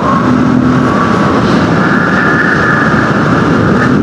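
Small Honda dirt bike's engine running at a steady cruise of about 72 km/h, with wind noise from the rider's helmet over it.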